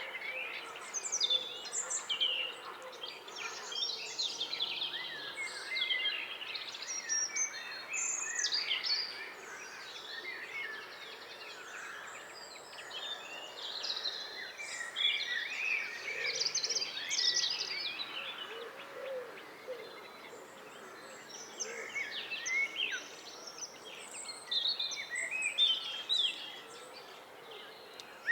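Several songbirds singing at once, overlapping high chirps and warbled phrases, over a steady background hiss.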